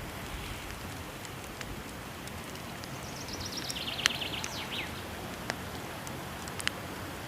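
Steady rush of a waterfall with sharp crackles and pops from a burning wood fire, the loudest pop about four seconds in. From about three seconds in, a bird sings a quick trill that falls in pitch.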